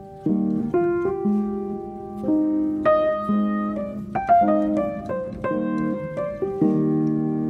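Solo piano background music, calm and slow, with held chords and single notes struck over them.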